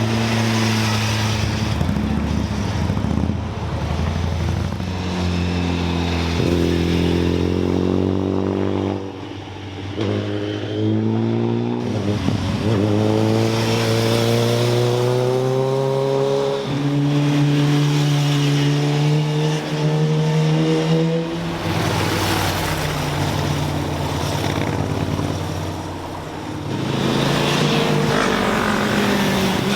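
Several sport motorcycles and sports cars passing one after another, their engines revving up and down through gear changes, with short lulls between passes.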